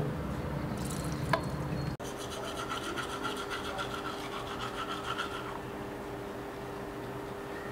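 A sharp click about a second in, then a toothbrush scrubbing teeth in quick, rhythmic strokes that stop a little past the middle, over a faint steady hum.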